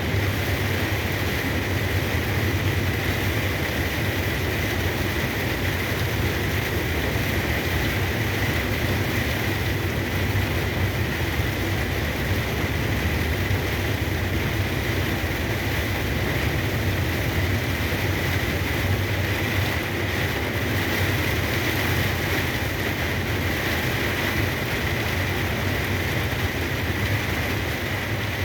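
Truck driving in heavy rain, heard inside the cab: a steady low engine drone under an even hiss of rain and tyre spray, with a faint steady high whine.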